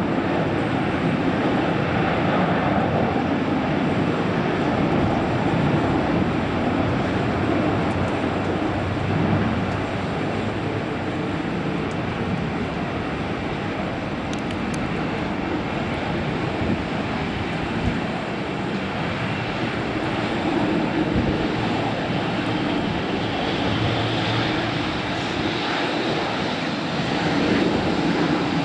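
Boeing 747-400 jet engines running with a steady roar and rumble, swelling and easing slightly, with a faint rising whine in the last few seconds.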